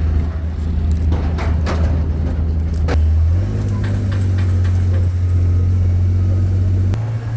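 A vehicle engine running steadily. Its pitch steps up about three seconds in and again near the end, and there are a few knocks and rattles in the first three seconds.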